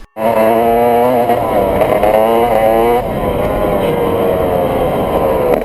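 Dirt bike engine running loudly, its revs rising and falling, with the pitch easing down over the last couple of seconds.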